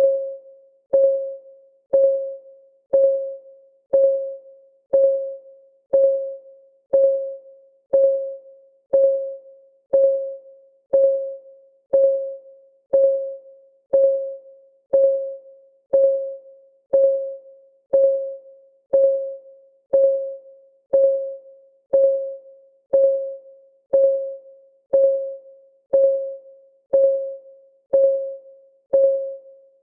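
Timer's clock ticking sound, one tick a second, each a short click with a brief ringing tone.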